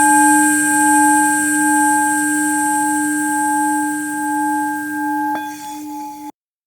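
Tibetan singing bowl ringing in a steady sustained tone with a slow, wavering pulse. About five seconds in there is a short click, and the ringing cuts off abruptly, leaving silence.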